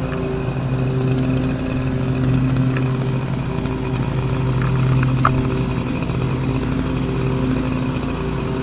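Small gasoline engine running at a steady speed, a constant hum with no revving.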